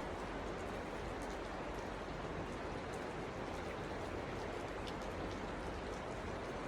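Steady rush of flowing creek water, an even hiss with a few faint ticks.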